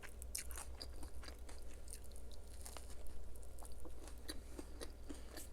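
Close-miked chewing of food, with many short, crisp crunches and mouth clicks coming irregularly, several a second.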